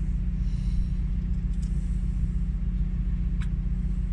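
Steady low machine drone, like an engine running, with one light click about three and a half seconds in.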